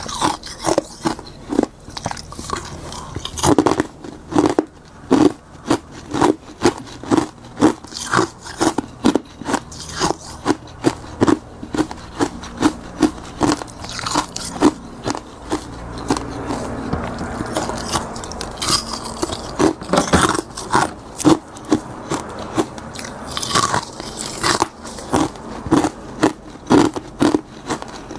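Close-miked chewing and crunching of frozen bitter buckwheat tea ice, the ice cracking in a steady rhythm of about two bites a second.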